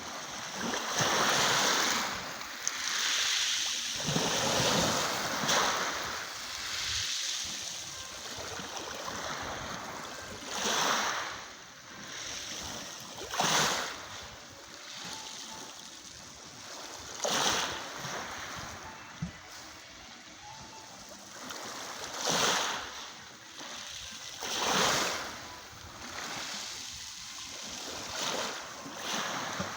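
Sea waves breaking on the shore: a steady wash with a surge every few seconds as each wave comes in.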